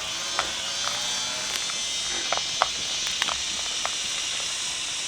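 A steady, high-pitched insect chorus, with occasional short clicks and knocks.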